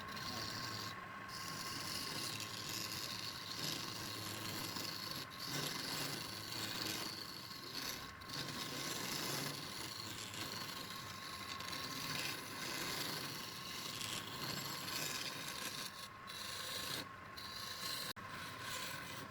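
Wood being worked with an abrasive tool: a steady rubbing, rasping noise, broken by a few short pauses.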